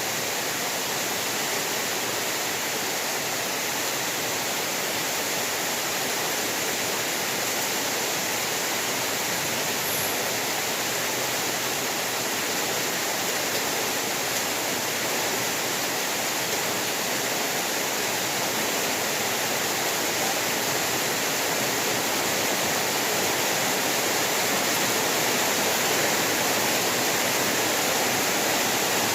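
Heavy rain falling in a steady, even hiss with no thunder, growing slowly a little louder.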